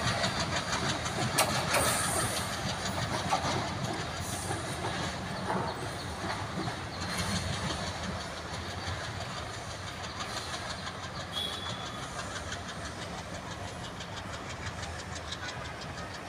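Passenger train running away along the track, its wheels clicking over the rail joints, the rumble slowly fading as it recedes.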